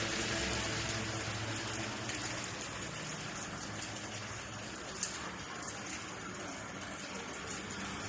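Steady rain falling, an even hiss, with one sharp tap about five seconds in.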